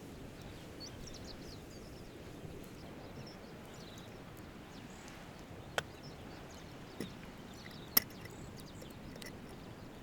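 Steady low outdoor background noise with faint high chirps, broken by three short sharp clicks or knocks; the last, about eight seconds in, is the loudest.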